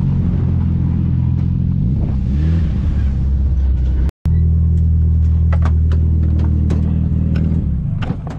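Turbocharged SR20DET four-cylinder engine of a Silvia drift car idling steadily, with a brief rise in revs about two and a half seconds in. The sound breaks off for an instant just after four seconds, then the engine idles on under a few light ticks.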